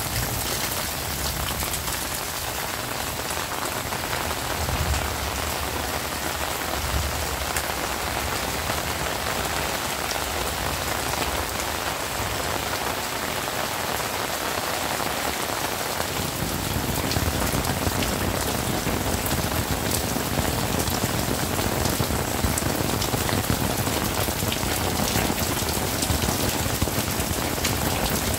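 Heavy rain falling steadily, a dense hiss of drops on surfaces. About sixteen seconds in it grows fuller and slightly louder.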